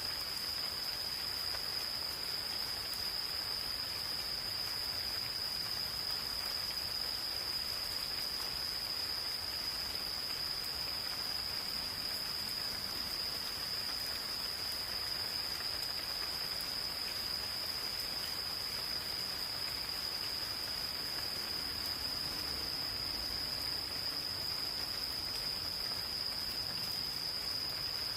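Insects singing one steady, unbroken high trill over the even hiss of gentle rain, with scattered drops ticking.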